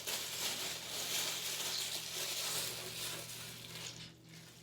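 Water trickling and splashing in a bathtub, a steady hiss that fades out about four seconds in.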